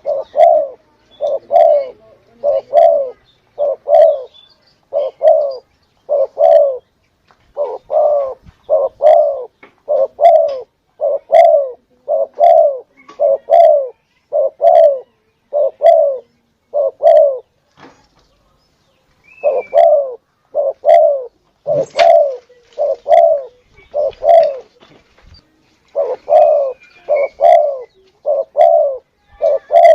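Spotted dove (tekukur) cooing, played as a lure call: short low coos repeated in quick succession, about two a second, with a pause of about two seconds just past the middle. Faint high chirps from small birds come through behind it.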